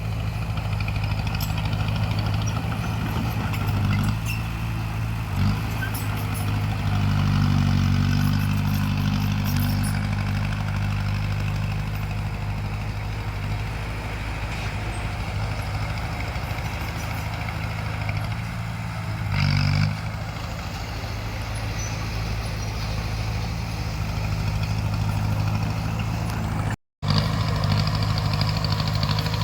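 Bulldozer's diesel engine running steadily, getting louder for a few seconds early on, with faint clanks. The sound cuts out completely for a moment near the end.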